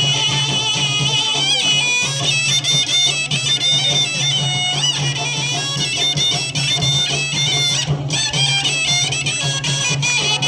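Traditional tribal folk music for a dance: a shrill reed pipe plays a wavering, ornamented melody over a steady low drone.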